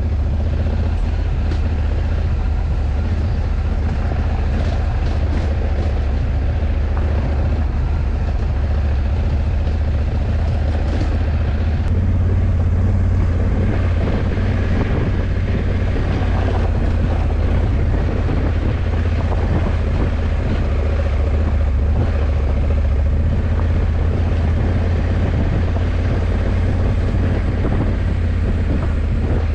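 Honda CRF1100 Africa Twin's parallel-twin engine running steadily while the motorcycle is ridden, a continuous low drone with road noise over it.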